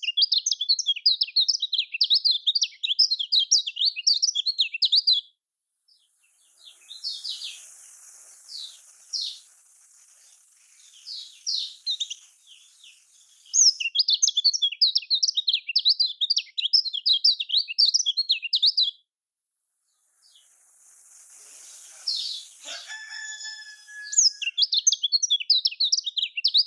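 Kecial kuning, a white-eye, singing: long runs of fast, high twittering chatter, separated by scattered single falling chirps. A brief steady whistle-like tone sounds about two-thirds of the way through.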